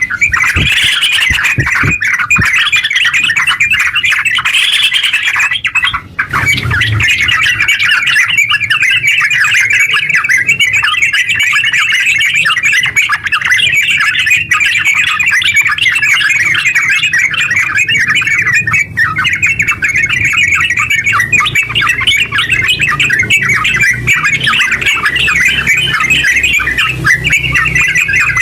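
Yellow-vented bulbul (terucuk) singing loudly. For about the first six seconds it gives separate bubbly phrases roughly once a second. After a brief break it goes into a long unbroken run of fast chattering notes, the rapid 'ngeropel' song.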